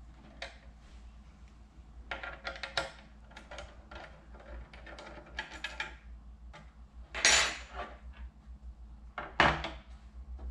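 Small hard parts and hardware being handled: a run of light clinks and rattles, a louder clatter about seven seconds in, and a sharp knock near the end.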